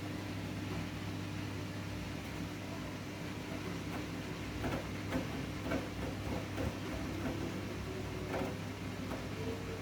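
Siemens i-Dos washing machine running a wool/delicate wash: a steady motor hum with a faint whine, and a run of short sounds from the drum between about four and nine seconds in.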